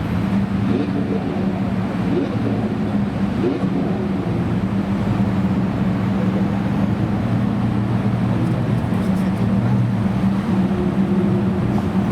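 Supercar engine idling steadily with a low, even tone.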